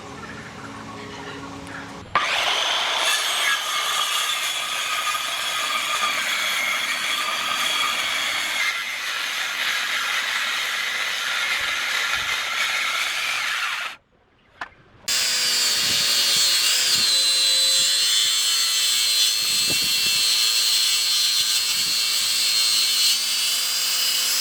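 Power tool cutting or machining wood, running loud and steady under load. It stops abruptly about halfway through and starts again a second later with a clearer, steadier whine.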